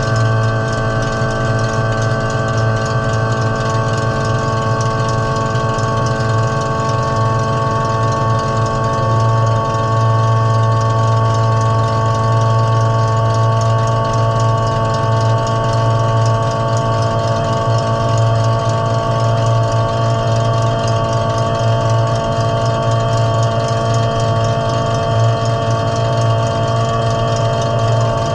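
Demolition derby car's engine idling steadily, heard from inside the stripped-out cabin.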